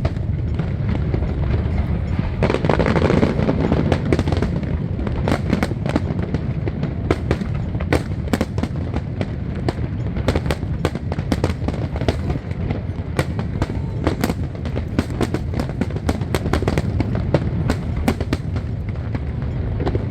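Aerial fireworks going off in rapid succession: dense crackling pops over a continuous low rumble of bursts, busiest a few seconds in.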